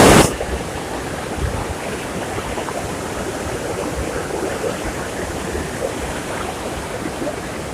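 Fast mountain stream rushing over rocks, a steady dense rush of water with a strong current. It opens with a brief loud burst of noise that cuts off a fraction of a second in.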